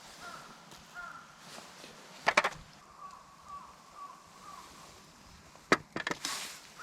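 A bird calling in the background, short arched calls repeating about twice a second, with a couple of sharp clicks or knocks, a pair about two seconds in and another cluster near the end.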